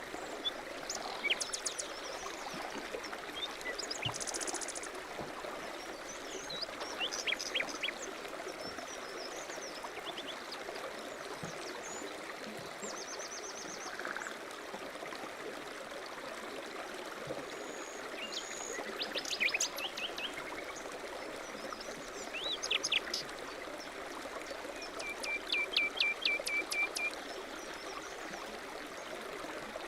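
Small songbirds chirping and trilling over the steady rush of a mountain stream, with a run of quick repeated notes near the end.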